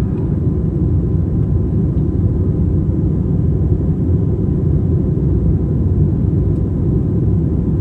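Steady low drone of an Airbus A321's cabin in flight: engine and airflow noise heard from inside the passenger cabin, even and unbroken.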